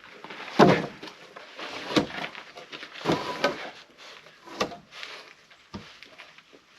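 Firewood logs being tossed and stacked, knocking against each other in five or six irregular wooden knocks and clatters, the loudest about half a second in.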